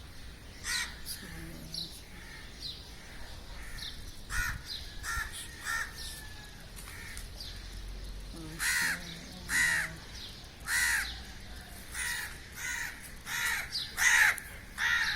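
Crows cawing at daybreak: a run of short, repeated calls, scattered and faint at first, then louder and closer together over the second half.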